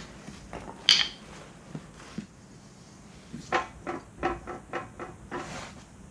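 Steel backhoe quick coupler clanking against the bucket's hooks and pins as it is worked into place: one sharp ringing metal clank about a second in, then a quick run of about six knocks in the second half.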